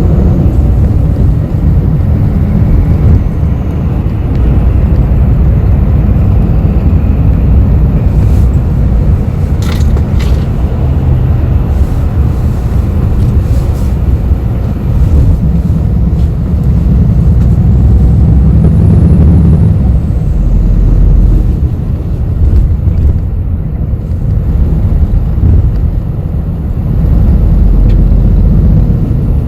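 City bus heard from inside the cabin while driving: a steady low engine and road rumble that swells and eases as it goes. A couple of sharp clicks about ten seconds in.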